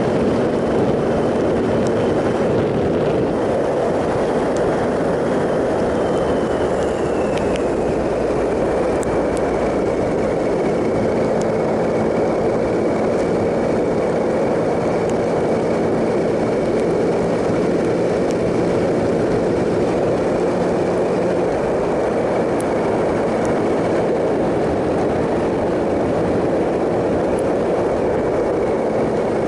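2007 Triumph Sprint ST 1050's three-cylinder engine running at a steady cruise, heard with heavy wind rush while riding. A thin high whine drops slightly in pitch about seven seconds in, then holds steady.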